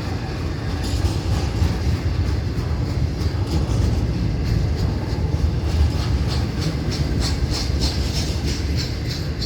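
Florida East Coast Railway intermodal freight train rolling past, its loaded cars making a steady low rumble on the rails with a continuous quick run of wheel clicks and clacks over the rail joints.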